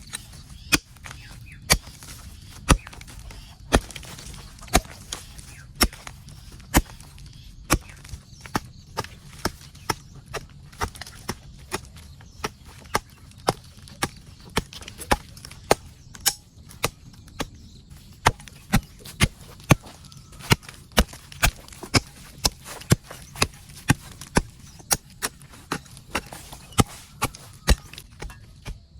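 Repeated blows of a tool on wood, about one a second at first and then quickening to about two a second a third of the way in.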